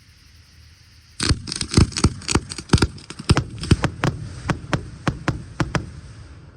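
Aerial fireworks going off in a rapid barrage: starting about a second in, a quick run of about twenty sharp bangs, some four a second, over a high crackling hiss. It dies away near the end.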